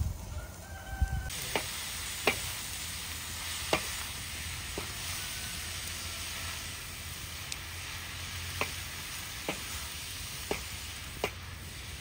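Food frying in hot oil in a pan: a steady sizzle that starts suddenly about a second in, with sharp clicks scattered through it about once a second.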